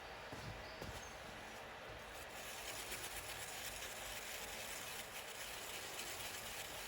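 Faint steady hiss from a Brasilia Portofino 3-group espresso machine as its boiler heats up and builds working pressure. It grows a little fuller about two seconds in.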